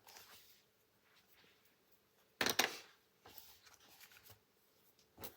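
Colored pencil working on paper: faint, intermittent scratching, with a short louder rustle about halfway through and a small click near the end.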